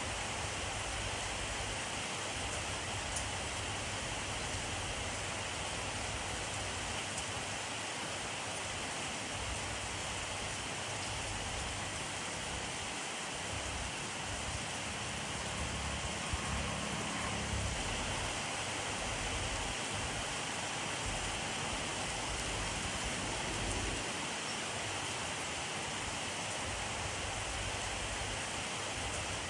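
Steady rainfall, an even hiss of drops falling on a surface.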